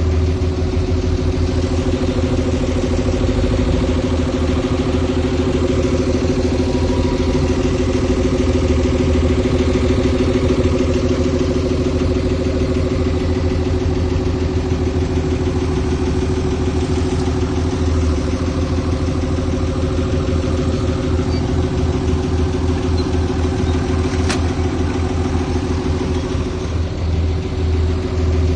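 Diesel engine of heavy earthmoving machinery running steadily at an even speed, a constant hum over a low rumble. One sharp click about 24 seconds in.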